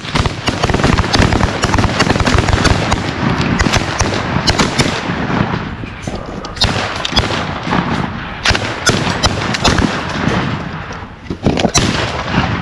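A volley of shotgun fire from several hunters shooting together. Many overlapping shots follow one another rapidly over a steady noisy din.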